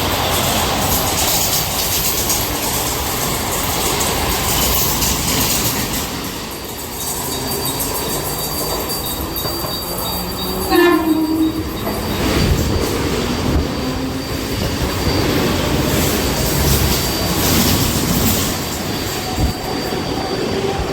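Two Mumbai suburban electric local trains passing each other at speed, with a steady rumble and rattle of wheels and coaches. A thin high wheel squeal runs from about a third of the way in, and a short horn sounds about halfway through.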